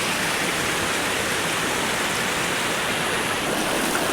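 Waterfall: water falling and splashing into its pool, a steady rushing hiss.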